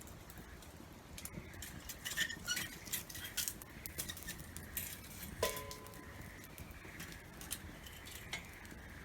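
Scattered light ticks and taps, with one sharp metallic clink about halfway through that rings briefly with a few clear tones.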